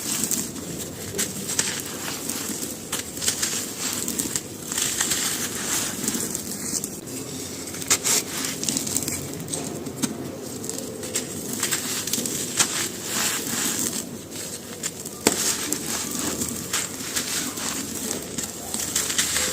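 Dry charcoal being crumbled and crushed by hand, a dense run of crunchy crackles with a few sharper snaps, one about eight seconds in and one about fifteen seconds in.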